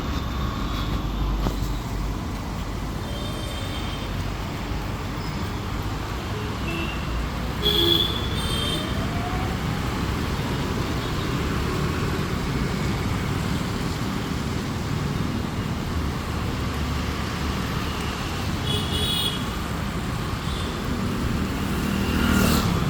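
Road traffic running past steadily, with short horn toots about eight seconds in and again near nineteen seconds.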